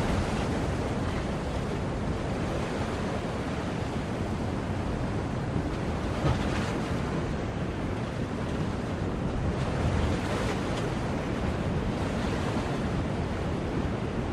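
Sea waves: a steady rush of surf with gentle swells in loudness, the largest about a second in, around six seconds and around ten seconds.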